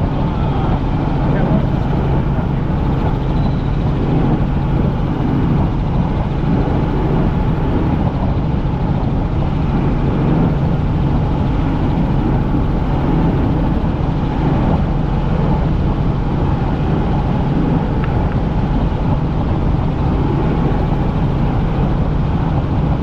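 Helicopter in flight heard from inside the cabin: a steady, loud drone of rotor and engine with a constant low hum and no change in pitch.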